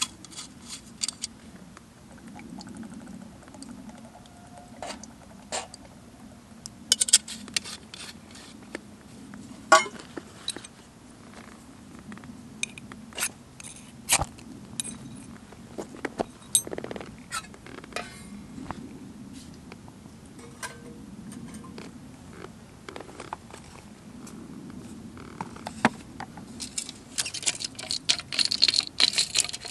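Scattered light clicks, knocks and scrapes of camp gear being handled, over a low steady hum. The clicks grow denser and sharper near the end.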